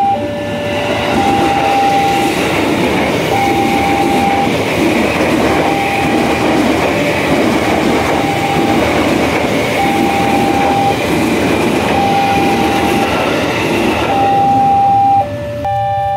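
Electric commuter train passing close at speed, a steady rush of wheel and rail noise that ends about 15 seconds in. Over it the level-crossing warning alarm sounds two tones, high then low, alternating about once a second.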